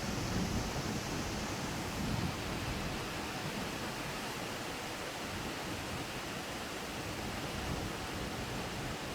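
Heavy rain pouring steadily in a thunderstorm, a dense, even hiss with no thunder.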